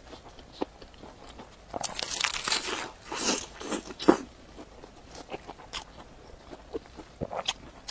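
Close-up crunching bites and chewing of a crisp youtiao (Chinese fried dough stick). The crunching is densest and loudest for about two seconds near the middle, then gives way to scattered soft mouth clicks.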